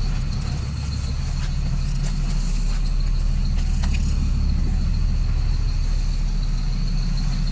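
2004 Blue Bird Vision school bus's diesel engine running steadily with a low, even rumble, with light high-pitched jingling and rattling a couple of seconds in.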